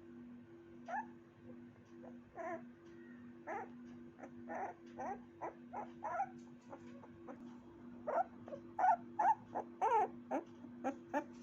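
A puppy whimpering in a string of short, high-pitched cries and yips, coming faster and louder over the last few seconds.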